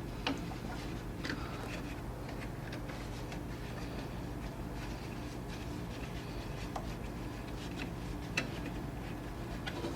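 Light rubbing with a few sharp clicks and taps as a cloth wipes dust off a refrigerator's condenser fan blade and surrounding parts, over a steady low hum.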